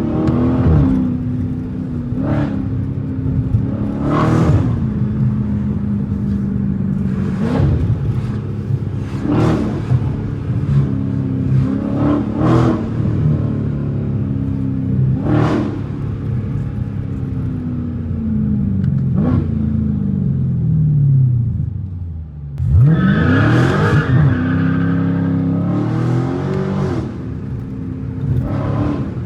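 Straight-piped Dodge Challenger Scat Pack's 6.4-litre HEMI V8 under hard driving, its exhaust note rising and falling through the gears with repeated sharp cracks. The engine note sinks for a few seconds, then shoots up in a hard rev about 22 seconds in.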